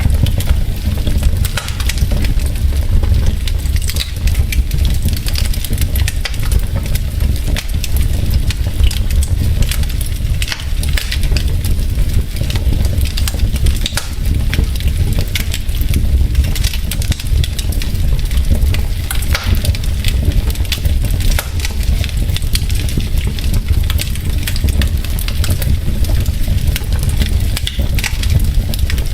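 Wood fire burning in a fireplace: logs crackling with many small sharp pops scattered irregularly over a steady low rumble of the flames.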